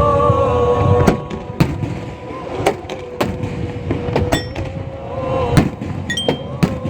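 A string of sharp, irregularly spaced cracks of fireworks going off, over a sustained tone that bends slightly in pitch.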